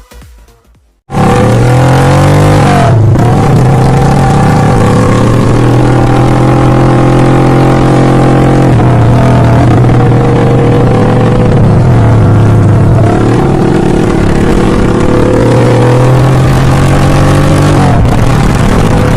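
Hero Splendor motorcycle's single-cylinder engine running very loud through a tractor silencer fitted as its exhaust, starting abruptly about a second in and held at steady revs with several brief dips and recoveries.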